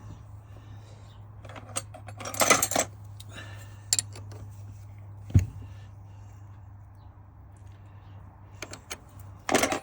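Metal clinking and jangling of tools and a small metal workpiece being handled at a lathe, in a few short clusters and a single knock, over a steady low hum.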